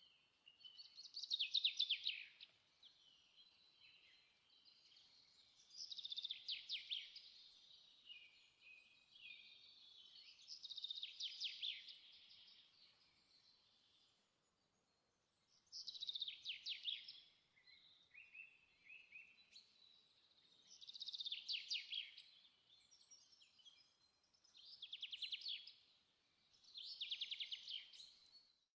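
A songbird singing: seven short, trilled phrases, each a second or two long and a few seconds apart.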